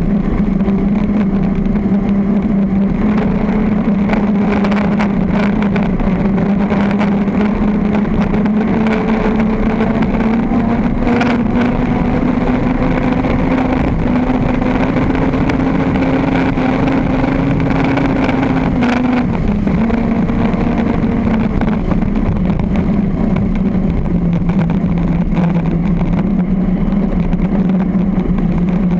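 V-drive circle-racing boat's engine running hard at sustained high revs, heard from on board. The pitch climbs slowly, drops sharply about two-thirds of the way through, then holds steady again.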